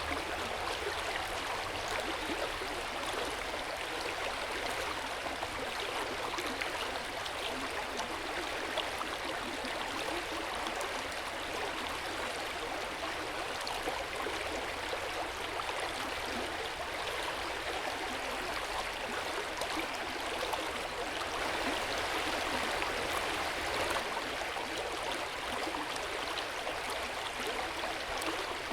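Hot-spring water running and splashing steadily in an open-air bath, a continuous gentle rush with fine splashes, slightly fuller for a few seconds past the middle.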